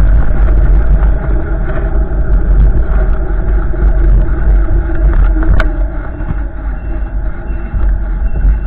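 Strong wind gusts buffeting the microphone in a steady heavy rumble, easing slightly after about six seconds, with one sharp click about five and a half seconds in.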